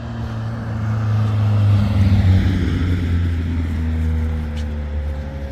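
A car engine running steadily, its low drone swelling about two seconds in and then easing off.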